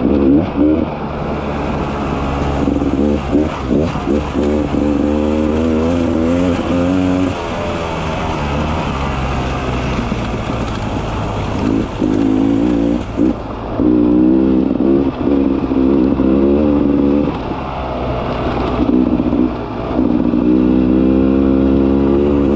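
Beta 300 RR two-stroke dirt-bike engine on the trail, the throttle opened and closed again and again so the revs climb and fall; it eases to low revs for a few seconds about a third of the way in, then picks back up.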